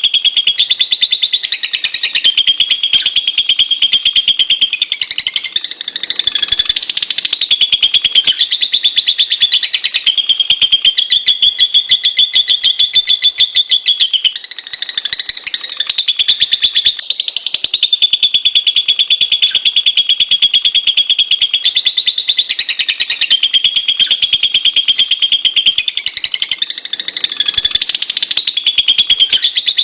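Lovebird chattering: an unbroken stream of rapid, shrill, high-pitched chirps.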